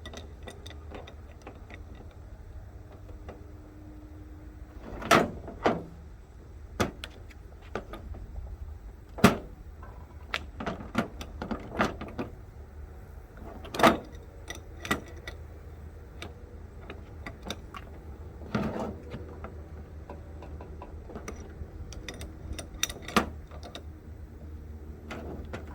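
Metal fittings on a pressure washer bypass being tightened by hand with tools: scattered sharp knocks and clinks, about five loud ones among lighter clicks, over a steady low hum.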